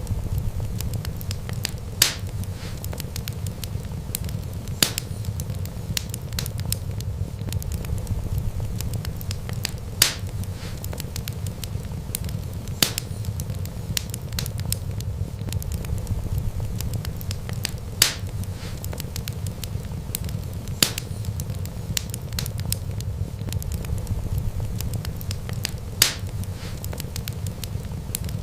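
Wood fire burning with a steady low rumble, constant light crackling and a few loud sharp pops every few seconds.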